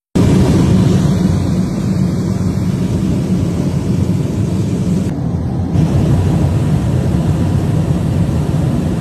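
Loud, steady rush of air and engine noise, heaviest in the low range, inside a Boeing 737 MAX 9 airliner cabin in flight with a section of its fuselage blown out.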